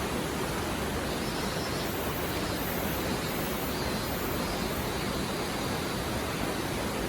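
Mountain stream babbling, a steady rush of flowing water.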